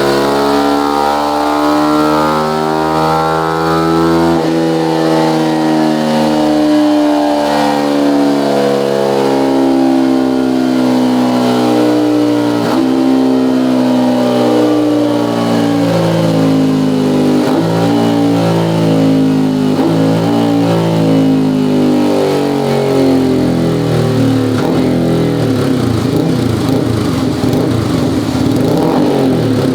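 Motorcycle engine breathing through an EvoX STD carbon-steel aftermarket exhaust with its Easy DB Killer insert fitted, running loud and steady. The engine note rises a little for about four seconds, then falls slowly over some twenty seconds as the revs wind down, and turns rough and uneven near the end.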